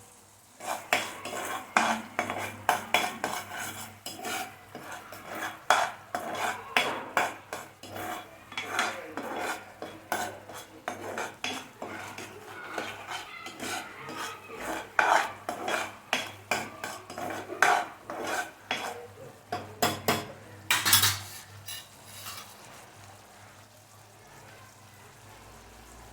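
A spoon stirring a thick sauce mixture, clinking and scraping against the dish in quick irregular strokes, with one louder scrape near the end before it stops.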